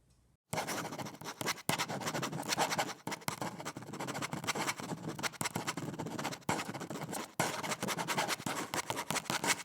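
Coloured pencil scratching rapidly back and forth on paper, shading in a large area with quick strokes. It starts suddenly about half a second in.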